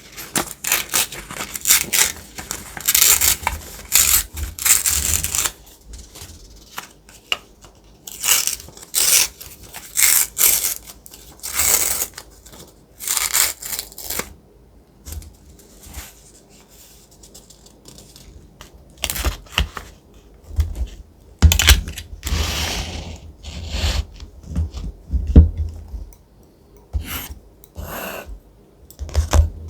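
Thick, textured paper being handled by hand: rustling in irregular bursts of varying length, with a quieter stretch in the middle.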